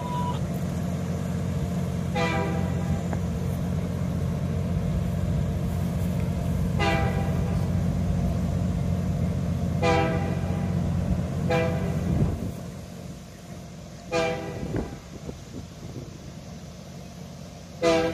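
Train of passenger cars pulling away: a steady low rumble that drops off sharply about twelve seconds in, with six short honk-like pitched tones scattered through.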